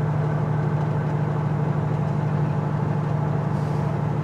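Semi truck's diesel engine running steadily under load in sixth gear, a constant drone heard from inside the cab.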